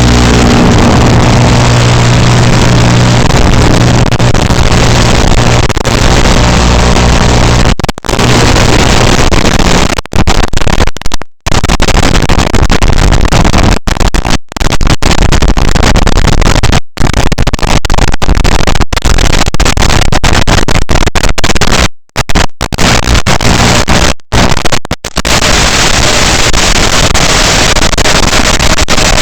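Loud, even hiss of analog FPV video-link static, broken by a dozen or so brief, complete dropouts between about 8 and 25 seconds in. A low steady musical drone fades out in the first few seconds.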